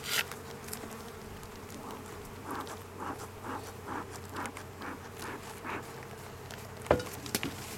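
Honeybees buzzing steadily around an open hive, with a run of short, soft whooshing puffs from a bee smoker's bellows in the middle, smoking the spot where a bee stung so its alarm pheromone is masked. A single sharp knock near the end.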